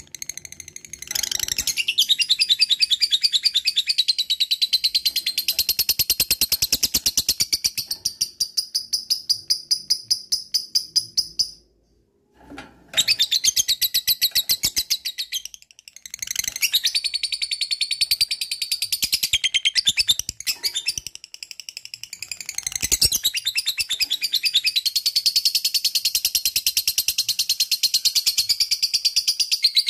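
Lovebird singing 'ngekek': long runs of rapid, shrill chattering notes repeated many times a second, broken by a short pause about twelve seconds in.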